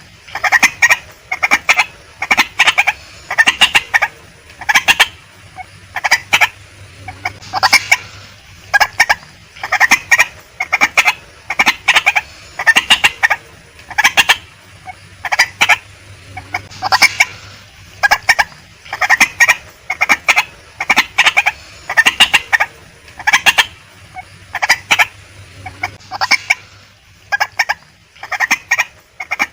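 Female white-breasted waterhen calling: harsh, short notes repeated in quick clusters, about one cluster a second, going on without a break.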